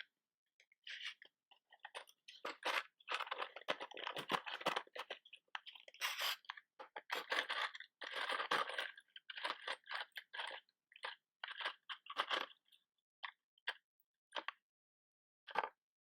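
Close-up crackly crinkling and scratching handling sounds, irregular, dense for several seconds in the middle and then thinning out to scattered short clicks.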